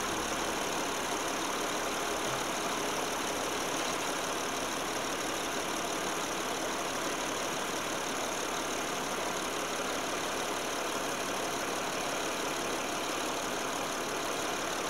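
2007 Saturn Vue's 3.5-litre V6 idling steadily in neutral.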